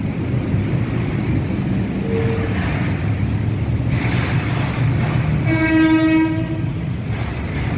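Electric commuter train rumbling slowly over a railway bridge above fast-flowing floodwater, a steady low rumble and rush. A train horn sounds once for about a second, about two-thirds of the way in.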